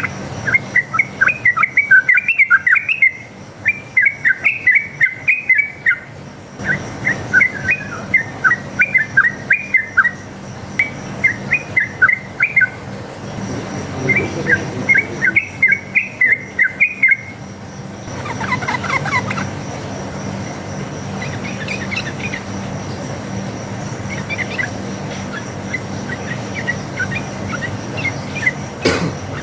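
Yellow-vented bulbul (trucuk) singing its bubbly, chattering song in repeated phrases of quick warbled notes, each about two seconds long. The phrases come loud and close together for the first half, then fainter and more scattered. A steady low hum runs underneath.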